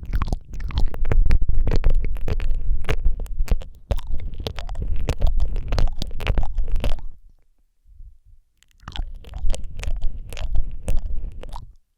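Close-miked ASMR mouth sounds: rapid wet clicks and smacks of lips and tongue right against a Rode microphone, over a deep rumble. They come in two runs, breaking off for about a second and a half after seven seconds.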